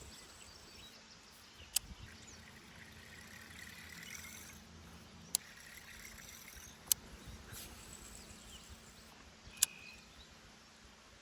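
Quiet outdoor background with a faint steady hum, broken by four sharp, brief clicks or knocks spaced one to three seconds apart.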